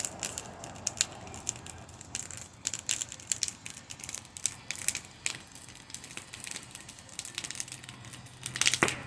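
Campfire crackling, wood popping in irregular sharp snaps as a spinning fire whirl burns, with a burst of louder pops near the end.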